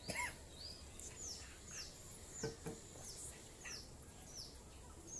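A small bird chirping over and over, a string of short, high, falling chirps about two a second, with a few faint soft knocks in the middle.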